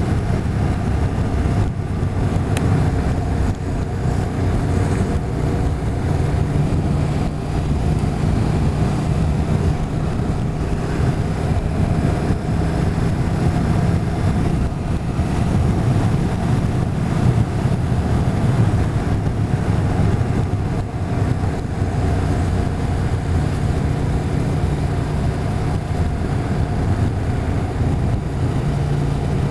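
Motorcycle engine running at road speed, with wind rushing over the microphone; the engine's hum drifts up and down a little in pitch as the throttle changes.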